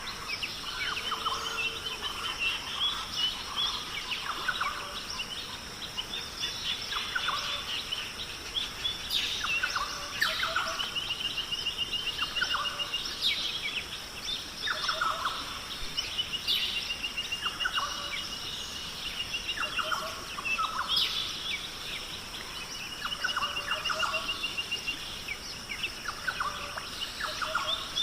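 Several wild birds calling and singing: rapid trilled phrases and short falling calls, repeating every second or two over a steady high hiss.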